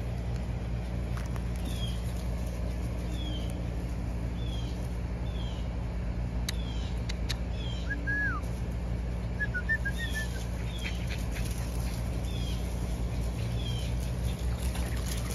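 A bird calling outdoors with short, high, falling chirps, repeated every second or so, with a few other whistled bird notes about halfway through. A steady low hum runs underneath.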